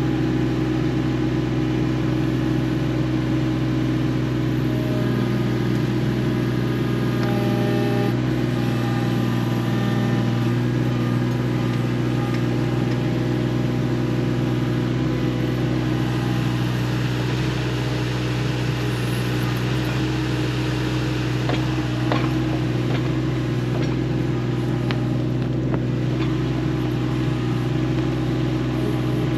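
Case 1.7-tonne mini excavator's diesel engine running steadily while it digs, with a few faint knocks late on.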